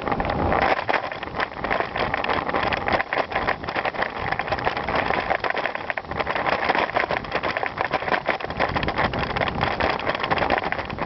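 Bicycle riding over a gravel trail: continuous crunching tyre noise with a dense crackle of small rattles, and wind on the microphone.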